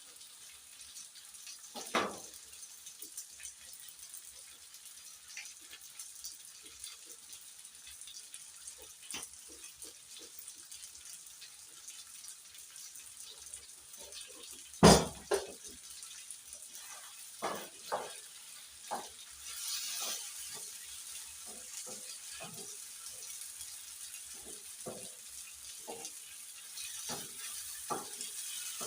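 Chicken gizzards frying in a pot with a steady sizzle that grows a little stronger in the second half, while a cooking spoon knocks and scrapes against the pot as they are stirred. A sharp knock about 15 seconds in, with another just after, is the loudest sound.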